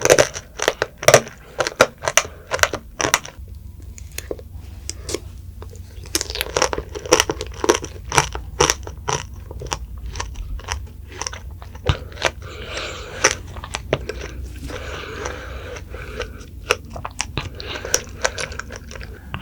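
Close-up crunching and chewing of strawberry tanghulu: the hard candied-sugar shell cracking into many sharp crunches between bites. The crunching comes in bursts, easing off for a couple of seconds a few seconds in before picking up again.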